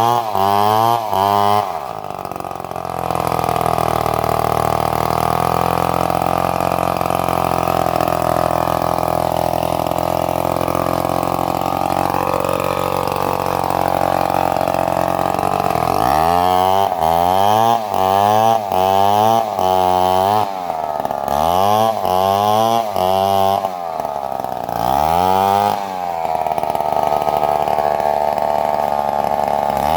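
Stihl two-stroke chainsaw revving. It is blipped up and down about once a second at the start and again through the middle of the clip, and held at steady high revs for long stretches in between, as when cutting through a coconut trunk.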